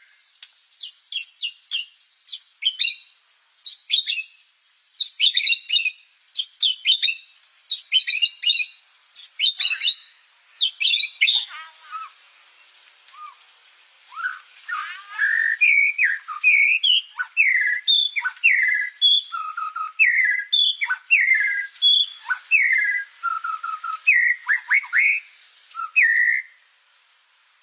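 White-rumped shama (murai batu) singing continuously in full song, with rich mimicked phrases. It opens with quick bursts of high chattering notes, pauses briefly, then carries on with slower sliding whistles.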